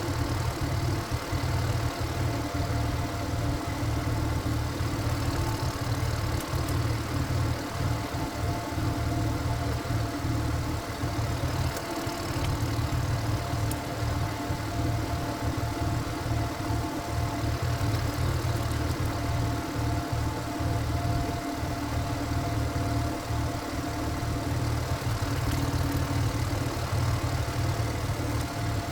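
Single-cylinder diesel engine of a Korean walking tractor (경운기) running steadily at a fast even chug.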